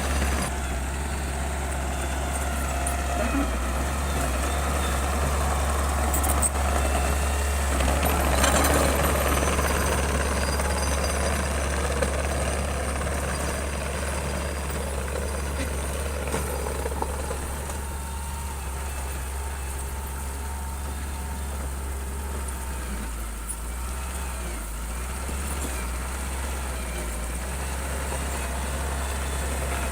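Heavy diesel construction machine's engine running steadily as a low drone, swelling a little around eight to ten seconds in and easing off somewhat in the second half, with a few short knocks.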